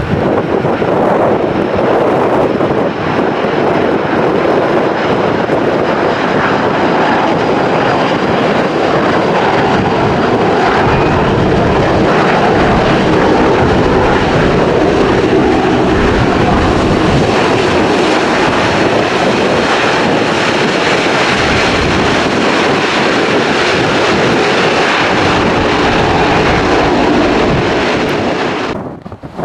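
Airliner's engines heard loud and steady for nearly half a minute as the plane passes near the runway, with a faint high whine drifting slightly lower in the first half. The sound cuts off abruptly just before the end.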